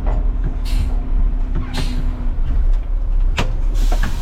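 Front-load garbage truck's diesel engine running with a steady low hum. Two short hisses come about a second and two seconds in, and there is a sharp knock near the end.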